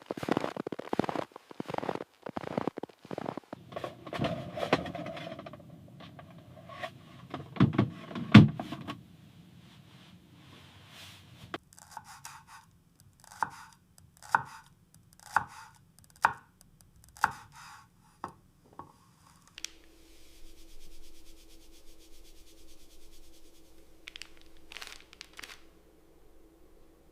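Knife chopping food on a cutting board: a quick run of cuts, two heavier knocks about eight seconds in, then slower strokes about one a second. Near the end the chopping stops and a steady low hum with a faint hiss takes over.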